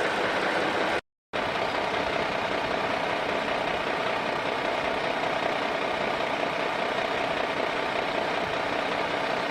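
A small electric motor of a DIY model running steadily with a dense whirr. The sound drops out completely for a moment about a second in, then carries on unchanged.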